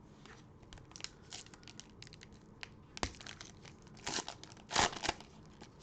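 Cellophane wrapper of a trading-card cello pack crinkling as it is torn open, a run of short crackles, loudest about four and five seconds in.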